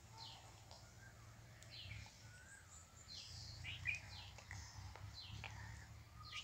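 Faint birds chirping: short, high calls that sweep downward, repeated every second or so, over a low steady hum.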